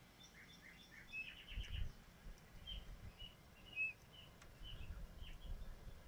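Small songbirds chirping: many short, quick chirps, some in rapid clusters, with a few low rumbles on the microphone.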